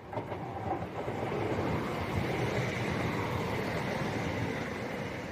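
A CrossCountry diesel multiple unit passing through the station at speed, a loud steady rush of wheels and engine that comes in suddenly at the start.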